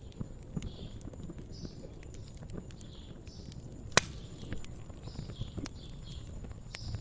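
Wood fire crackling, with many small irregular pops and one sharp, loud pop about four seconds in, over a low steady rumble of the burning.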